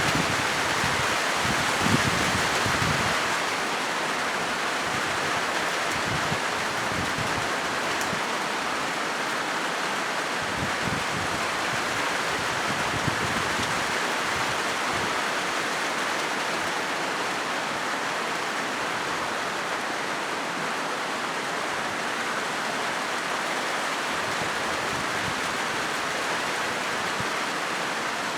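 Steady rain drumming on a corrugated zinc roof: an even hiss of countless drops, with a few low knocks in the first three seconds.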